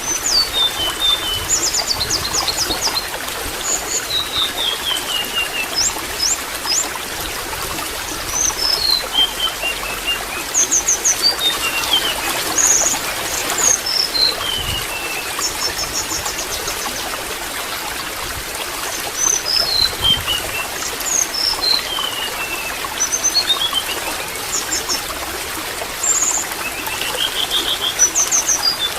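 Water trickling and splashing steadily, with a small songbird singing short phrases every few seconds: strings of notes falling from high to lower pitch, and quick high rattling trills.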